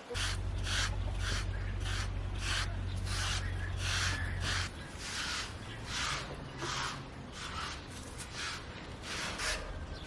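Rhythmic rubbing strokes, about two to three a second, as of a brush or hand worked back and forth. A steady low hum runs underneath and stops about halfway through.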